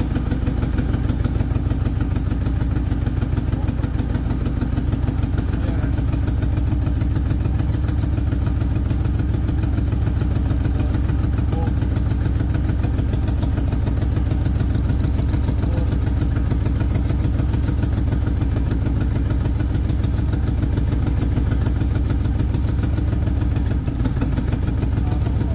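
Car engine idling roughly with an uneven, misfiring beat and puffing from the exhaust, over a steady high-pitched whistle: the engine is running with a dead cylinder.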